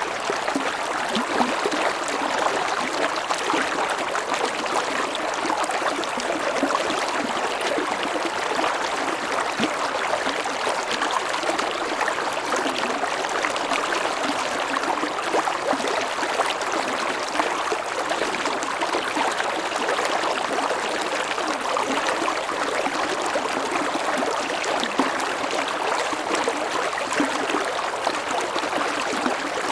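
Mountain stream flowing over rocks: a steady rushing and babbling of water.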